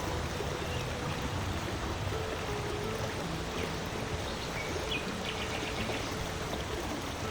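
Steady rushing of flowing water like a small woodland stream, with brief bird chirps and a quick trill about five seconds in. Soft held music tones run faintly underneath.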